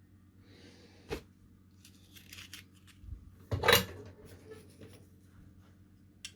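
Small hand tools and parts being handled on a workbench during circuit board kit assembly: a sharp click about a second in, a quick run of light clicks, then a louder clatter a little past the middle and one small click near the end.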